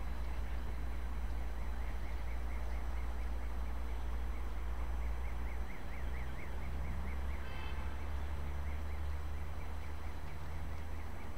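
Steady low rumble with a bird chirping rapidly over it for several seconds in the middle.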